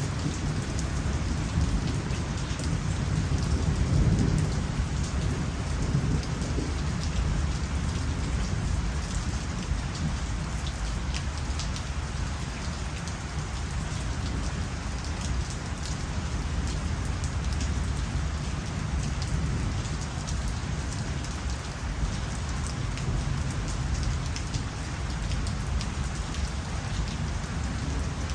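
Steady rain falling on surfaces, with scattered individual drops and a low rumble, likely distant thunder, swelling about four seconds in.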